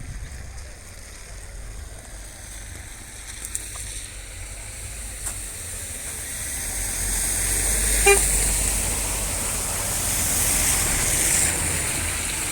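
A vehicle passing by, swelling and fading, with a short horn toot about eight seconds in.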